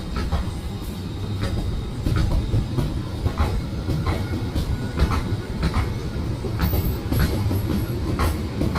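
A railway locomotive running on the track: a steady low rumble with irregular clanks and clicks.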